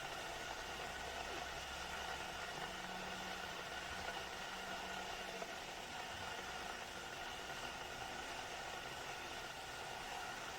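Glass electric kettle heating water, a steady rushing hiss.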